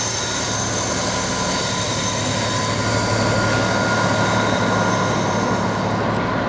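Diesel-hauled freight train passing at speed, with a steady engine hum and a high whine over the running noise. It is loudest about three to four seconds in.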